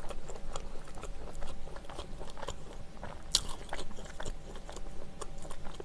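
Close-miked chewing of a soft bread with a chewy glutinous rice cake (chapssaltteok) filling: moist, sticky mouth sounds with many small clicks, and one sharper smack about three and a half seconds in.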